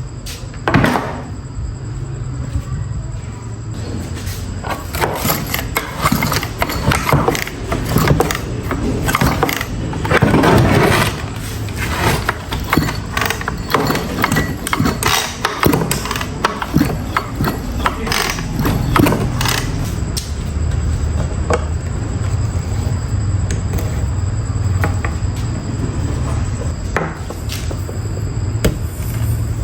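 Irregular knocks, clicks and scrapes of hand tools working on metal parts, busiest in the middle stretch, over a low steady hum.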